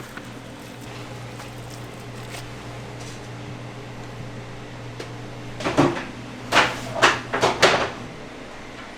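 Kitchen work: a steady machine hum, likely ventilation or equipment, with a quick run of five or so short knocking and scraping strokes about two-thirds of the way through.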